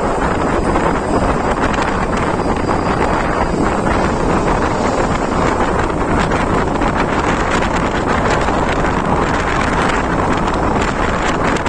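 Strong, steady wind noise buffeting the microphone on a moving vehicle, over a low road-and-engine rumble.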